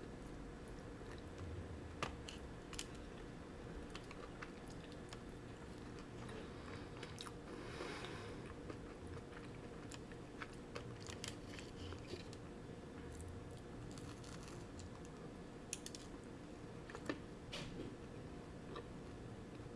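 Close-up chewing and biting of a bagel with cream cheese: soft mouth sounds broken by scattered small crunchy clicks, with a brief breathy noise about eight seconds in. A faint steady hum lies underneath.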